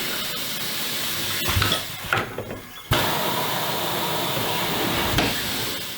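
Compressed air hissing loudly and steadily. It breaks off for under a second about two seconds in, with a few small clicks, then comes back abruptly.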